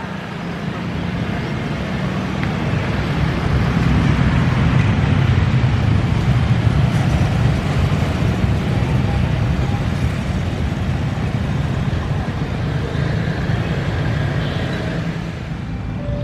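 Long freight train of open coal hopper wagons rolling past: a steady rumble and clatter of steel wheels on the rails, swelling a few seconds in and easing off toward the end.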